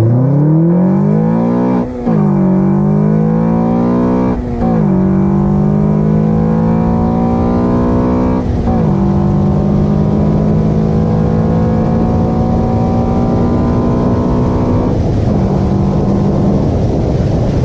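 Car engine breathing through an Acuity cold air intake, accelerating hard through the gears. Its pitch climbs and drops at three quick shifts in the first nine seconds, then pulls steadily higher in the next gear before easing off near the end.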